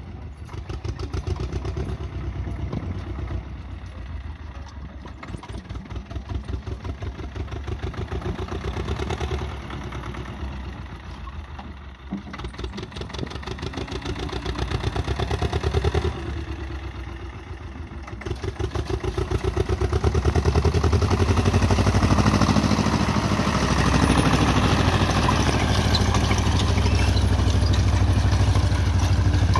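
Turbocharged two-cylinder diesel of an Ursus C-330M tractor running under light load while sowing during its running-in, held below 1800 rpm, with the turbo's exhaust flap fully open. The sound swells and fades as the tractor moves across the field, and is loudest and steadiest over the last third.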